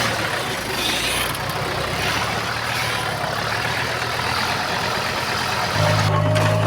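Diesel engine of heavy earthmoving machinery running steadily. Near the end the sound abruptly gets louder, with a stronger steady low hum.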